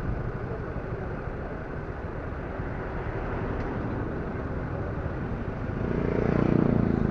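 Steady road and engine noise from motor vehicles, with one vehicle passing louder about six seconds in.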